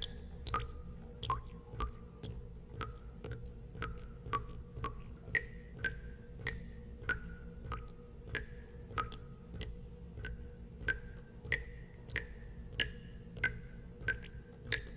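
Water drops falling one after another into water, about two a second, each a sharp drip with a short ringing plink whose pitch shifts from drop to drop. A steady low hum sits underneath.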